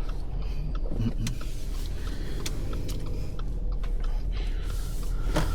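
Vehicle driving through rain puddles: a steady low rumble of engine and road noise, with a few sharp clicks along the way.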